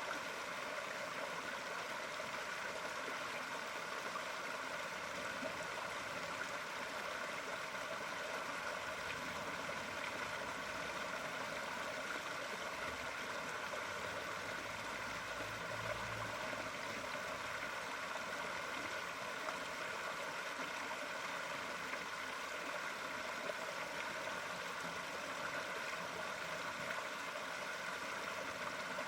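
Steady flowing, gurgling water, with a brief low rumble about halfway through.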